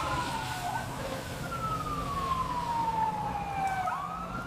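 Ambulance siren wailing: a long tone sliding slowly down in pitch, then sweeping back up near the end, over a low rumble.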